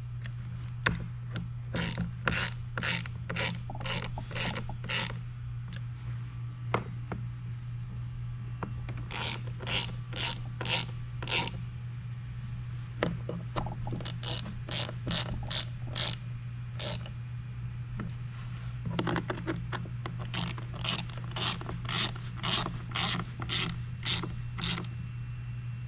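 Ratchet wrench clicking in several short runs as the foot pad bolts are snugged down, with pauses between runs. A steady low hum runs underneath.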